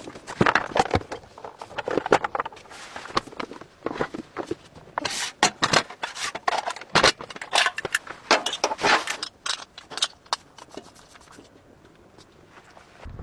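Irregular scraping and crackling noises, a quick uneven run of sharp clicks and rustles that dies down about three quarters of the way through.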